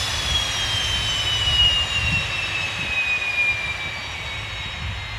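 Rolls-Royce Spey 205 turbofan jet engine running on a ground test bed: a dense roar with a high whine that falls steadily in pitch as the revs come down, and the roar eases off toward the end. The reheat has not lit, because the amplifier module that monitors the engine's temperatures is refusing to allow it.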